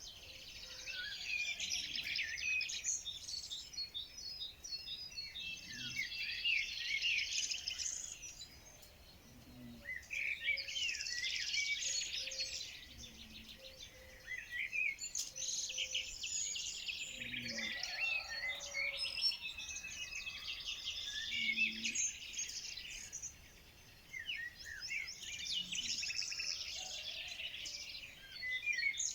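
Many small birds chirping and twittering together in dense spells a few seconds long, with short lulls between them.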